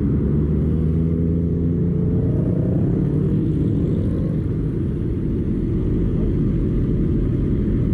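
Motorcycle engine running under way with a steady low drone, its pitch rising briefly about two to three seconds in as the revs climb.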